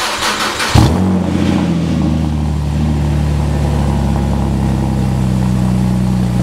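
Car engine cranked over by the starter, catching with a loud burst about a second in, then settling into a steady idle.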